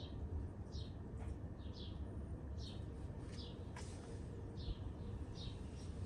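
A bird repeating a short, falling chirp about once a second over a low, steady background rumble, with a single sharp click about two-thirds of the way through.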